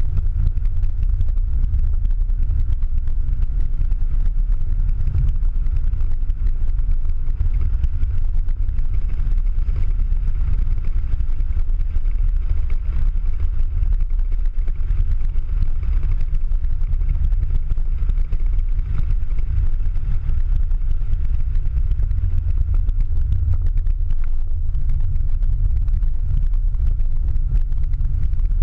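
Ford Mustang Boss 302's V8 engine and road noise heard from inside the cabin while lapping a wet track, a steady low drone throughout.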